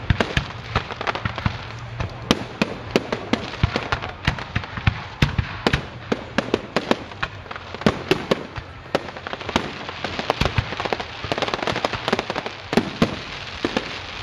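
Aerial firework shells bursting: many sharp bangs in quick, irregular succession, several a second, over a continuous noisy background between them.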